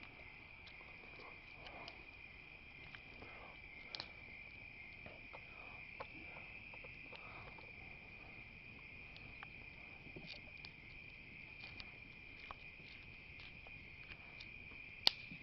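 Faint, steady night chorus of crickets trilling, with scattered crackles and pops from a wood campfire; the sharpest pop comes near the end.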